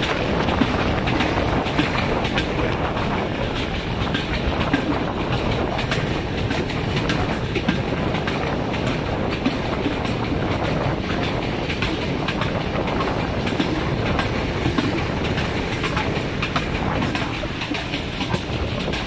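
Pakistan Railways passenger train running at speed, heard from beside the coach: a steady rumble and rush of noise with frequent irregular clicks and clatter of the wheels on the track.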